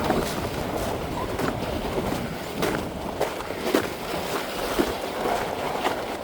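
A load dragged over ice-crusted ground, scraping steadily, with irregular sharp crunches and cracks of ice breaking underfoot.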